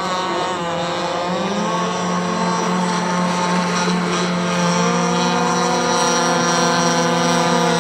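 Gas-powered RC catamaran's two-stroke engine running on the water, a steady buzzing note that dips briefly in pitch about a second in, then holds and edges up slightly toward the end. The boat is running gently while its new engine is broken in.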